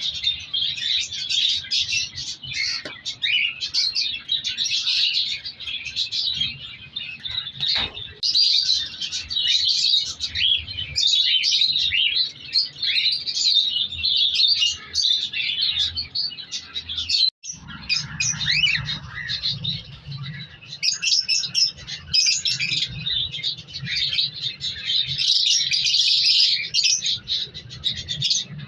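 Many caged birds chirping and calling over one another in a continuous chorus, with a brief break about two-thirds of the way through.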